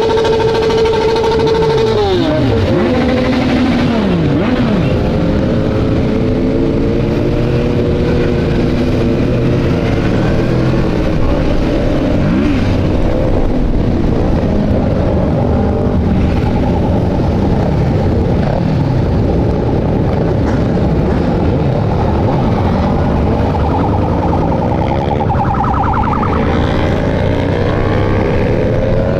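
Motorcycle engines on a large group ride: one engine held at a steady high pitch drops away about two seconds in as it slows, then many engines rise and fall in pitch as bikes pass and accelerate around it.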